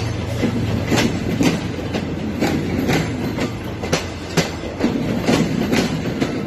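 Philippine National Railways commuter train passing close by, its wheels clacking over rail joints about twice a second, often in pairs, over a steady low rumble.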